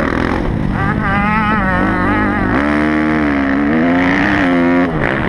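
Kawasaki motocross bike engine revving up and down on the throttle. About halfway through it holds at a steady high rev for a couple of seconds, then drops off sharply near the end as the throttle closes.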